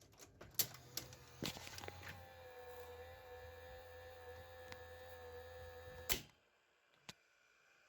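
Clicks of a 1979 Panasonic PV-1200 VCR's tape mechanism engaging, then its motor running with a steady hum and whine for about four seconds, cut off by a sharp clunk about six seconds in, with one more click a second later. Its drive belts are worn, and the owner blames a belt for the machine's failure to play.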